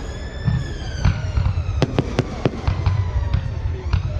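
A fireworks display: sharp bangs and cracks going off at irregular intervals, some close together, over a continuous low rumble. In the background a held, whistle-like tone with overtones slides slowly in pitch.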